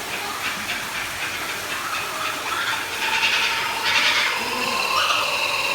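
Birds giving laughing calls: a rapid run of short repeated notes, then longer pitched calls that build and grow louder near the end.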